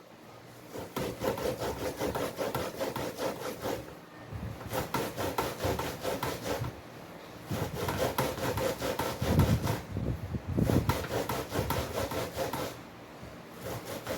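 Ears of fresh corn being rubbed quickly back and forth over a sharp metal hand grater, a rhythmic rasping scrape. It comes in runs of strokes with short pauses between them.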